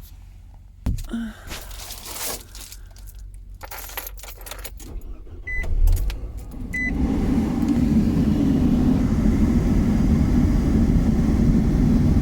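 Keys jangling and rattling, two short high beeps, then the Nissan NV200 van's four-cylinder engine starts about six seconds in and runs with a steady loud hum.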